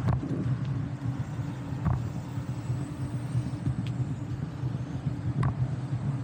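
Steady low road rumble during a bicycle ride, with a few faint clicks.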